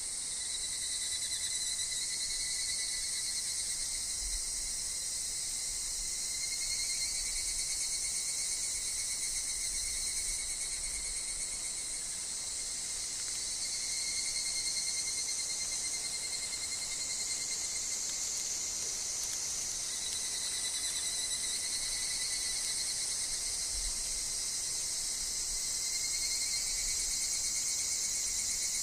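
Steady chorus of insects in woodland: a dense, high-pitched shrill buzz with a thinner, lower trill running beneath it, swelling and easing a little every few seconds.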